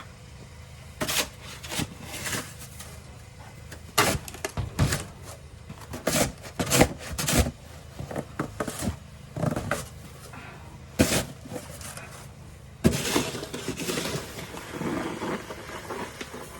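Snow shovel scraping and knocking on the ground, clearing packed snow. An irregular run of sharp scrapes and knocks gives way near the end to a longer push-scrape.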